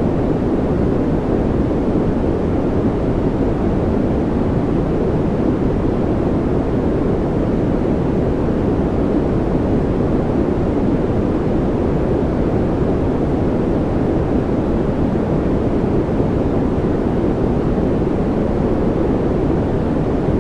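Steady, unbroken noise played as a relaxation sound, deep and rumbling rather than hissy, with its weight low and little in the high range.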